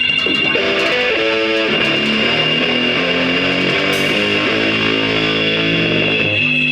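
Live noise-music performance: a plucked electric guitar playing a line of stepping notes, starting about half a second in and stopping shortly before the end, over a steady high-pitched tone.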